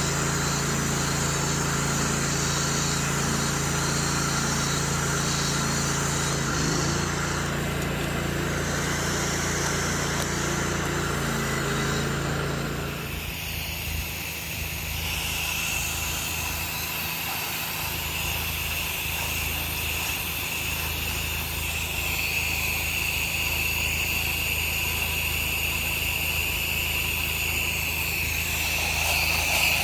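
Engine-driven pressure washer running steadily. About halfway through, its low hum thins out and a steady high whine comes in.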